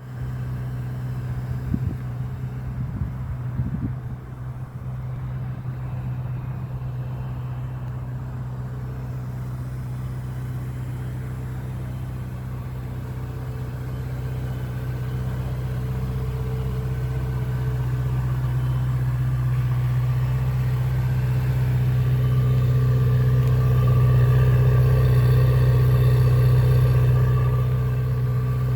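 Ferrari 488 GTB's twin-turbo V8 running at a steady, unchanging pitch, with a few short knocks about two to four seconds in. It grows gradually louder over the second half, then eases off slightly near the end.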